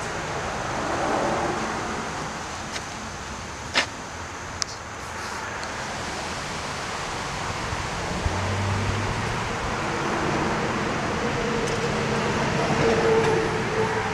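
Steady rushing vehicle noise that swells and fades slowly, with two sharp clicks about four seconds in.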